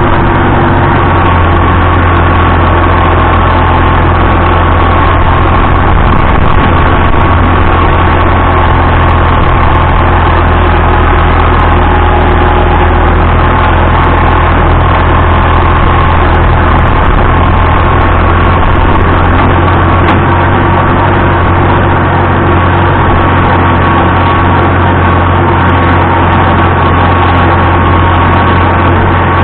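Vintage farm tractor engine running loud and steady, without change in speed.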